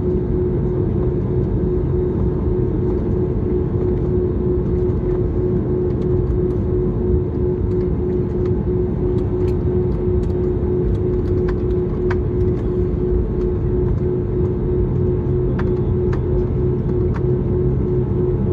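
Airbus airliner cabin noise: a steady engine rumble with a constant droning hum, and a few faint ticks.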